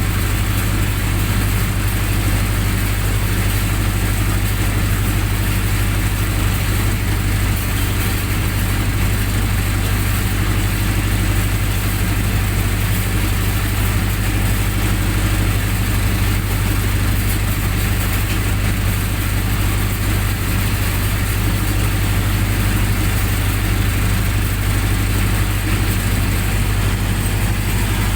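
Generator set's engine running steadily at constant speed, a loud even low hum with no changes in pitch.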